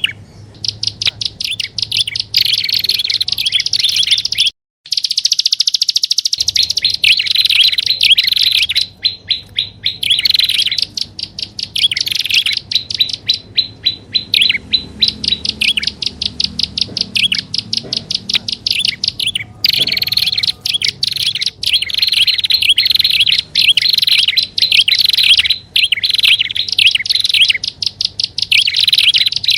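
Prinias (prenjak) calling in a bird-lure recording: dense, rapid runs of high chirping notes, several birds layered. The sound cuts out completely for about two seconds near five seconds in, then resumes.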